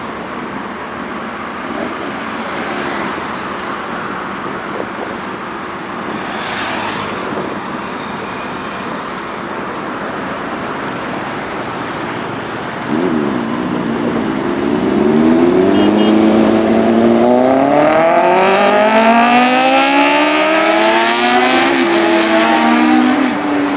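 Road traffic noise, then from about halfway a superbike engine revving hard and accelerating, climbing in pitch through several gear changes and becoming the loudest sound.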